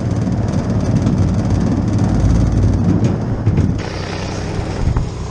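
Rooftop HVAC unit running: a steady low mechanical rumble and hum, which drops in level about four seconds in.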